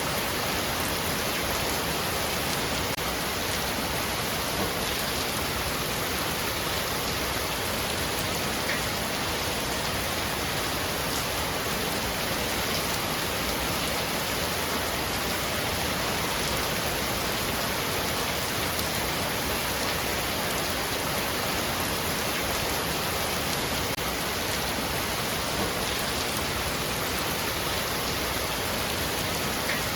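Heavy rain falling on a roof, a steady dense hiss of drops with no let-up.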